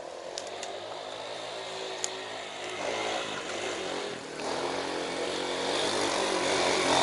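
Off-road motorcycle engine running, its pitch shifting a few times and growing steadily louder.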